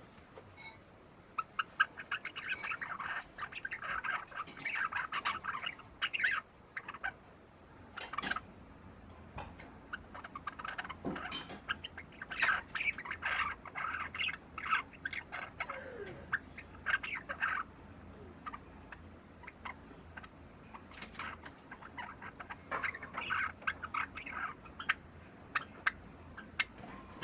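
Young Java sparrow practising subsong: rambling strings of rapid chirps and clicks, in three bouts with short pauses between. This is the immature practice stage before the full song.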